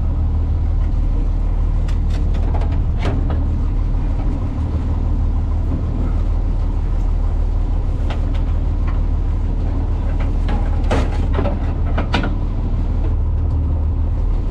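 Fishing boat's engine running steadily with a deep, even hum, and a few sharp knocks or clicks of gear on board.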